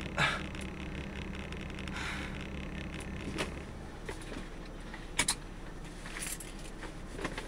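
Steady low hum of a car running, which cuts off about three and a half seconds in, with a few scattered sharp clicks and knocks, two of them in quick succession.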